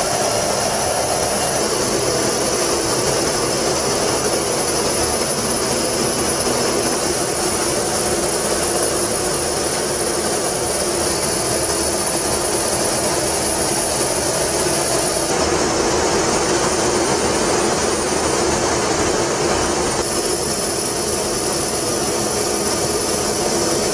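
Jet aircraft engines running steadily: a continuous even rush with a thin high whine above it, which drops away for a few seconds after the middle.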